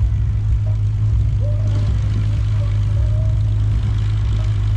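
A light aircraft's piston engine idling, a steady low drone, with more hiss joining about a second and a half in.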